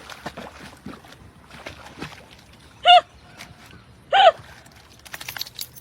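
A dog gives two short high-pitched yelps about a second apart, over water splashing and sloshing.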